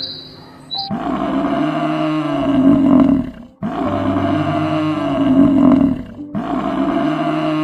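A large wild animal roaring: three long roars, each about two seconds or more, with short breaks between them.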